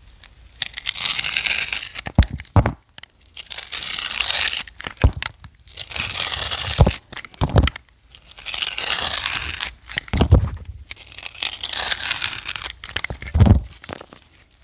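Crunching, scraping strokes, about five of them roughly every two to three seconds, several punctuated by a short dull thump.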